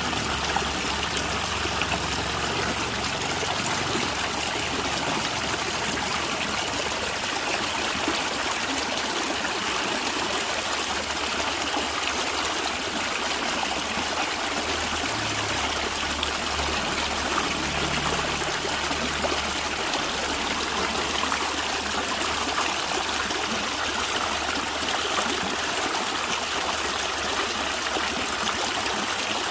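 Stream water flowing and gurgling, steady and unbroken.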